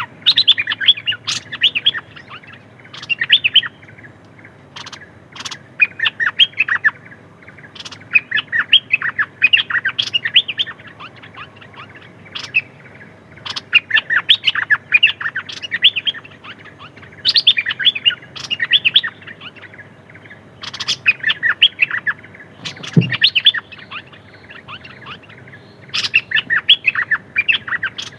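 Decoy songbird of the kind called nok dok taeng singing in repeated bursts of quick, high chirps, each burst a second or two long with short pauses between. A single low thump comes about two-thirds of the way through.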